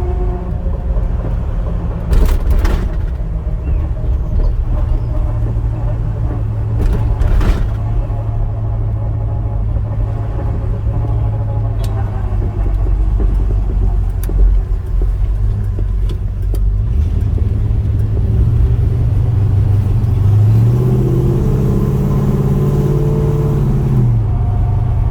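Chrysler 8 3/4 rear axle making noise after its pinion nut was tightened to 250 lb-ft, heard over the car's steady low running drone with a faint whine of several pitches above it. Near the end the low tone rises and then falls, and there are two brief knocks, about two and seven seconds in.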